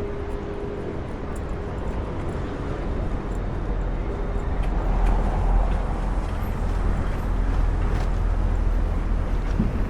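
City street traffic: a steady low rumble of vehicles that swells about halfway through.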